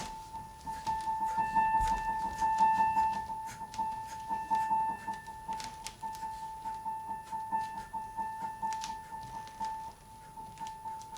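Keyboard playing one high note over and over in a quick, even pulse, with scattered short clicks and taps over it.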